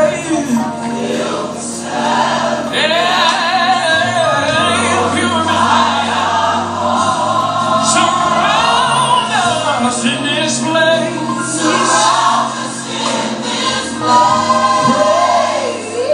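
Gospel choir singing a worship song over a band, with steady bass notes and cymbal crashes.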